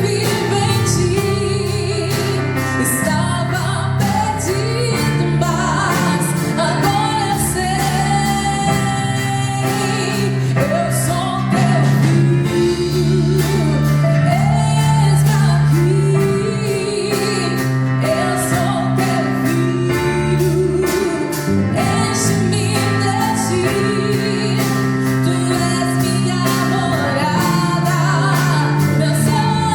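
Live band playing a lively gospel-style song: singing over piano, acoustic guitar, bass guitar and a drum kit, with a steady beat.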